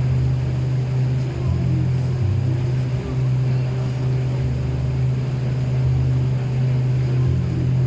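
A boat's engine running at a steady speed: a low, even drone.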